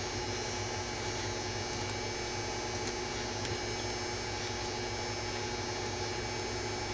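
Steady electrical hum with a background hiss, and a few faint ticks in the middle.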